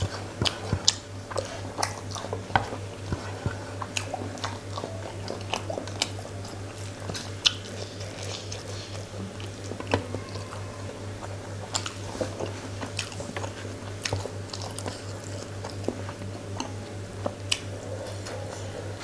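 Close-up chewing and biting of fish head and curried rice eaten by hand, with many sharp wet mouth clicks and smacks. A steady low hum runs underneath.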